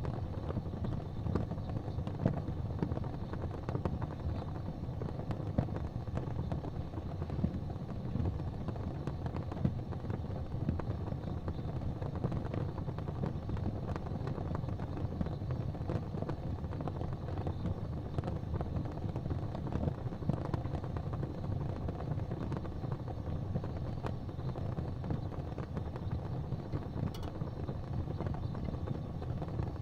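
Fireplace fire burning with a steady low rumble, scattered with frequent sharp crackles and pops.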